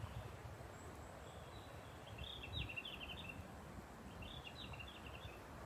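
A small bird chirping in two short runs of quick, high notes, about two seconds in and again near four and a half seconds, over a faint low rumble.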